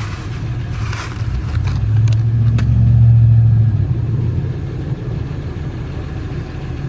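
A motor vehicle's engine running as a low rumble, swelling to its loudest about three seconds in and then easing off, like a car accelerating or driving past.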